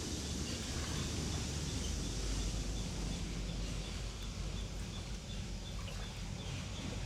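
Outdoor countryside ambience: a steady noise with low rumble, and a faint high chirp repeating evenly, about two to three times a second.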